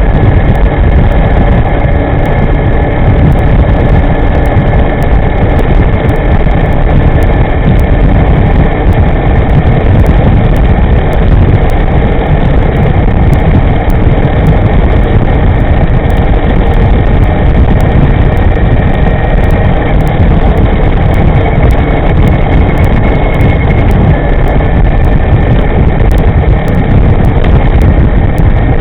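Wind rushing and buffeting over the microphone and road noise from a moving electric scooter, a loud steady rumble with a faint high whine running under it.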